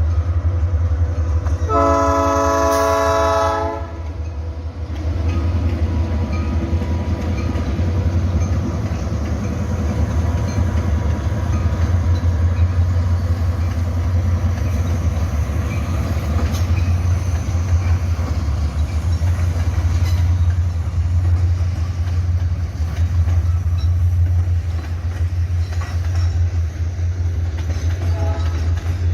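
Diesel freight train locomotive sounding its multi-tone air horn for about two seconds near the start, then the steady heavy low rumble of the locomotives' diesel engines as the train runs by.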